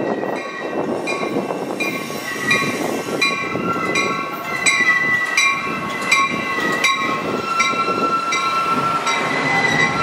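Metra bi-level commuter train rolling slowly along the platform, its steel wheels rumbling and squealing on the rails. Over it a bell rings in a steady beat, about one strike every 0.7 seconds.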